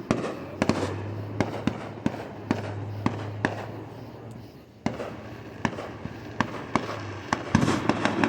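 Fireworks going off in an irregular series of sharp pops and bangs, two or three a second, with a short lull about halfway through. A steady low hum runs underneath.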